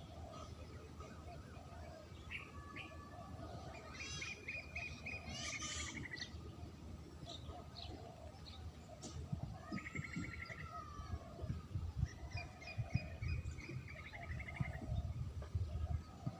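Spotted dove (terkukur) cooing in soft, low, repeated notes, with other small birds chirping and trilling higher over it. Several dull low thumps come in the second half.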